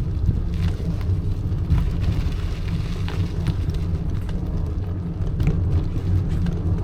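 Bicycle riding over a rough, potholed road: a steady low rumble from tyres and frame, with scattered rattles and knocks from the bumps.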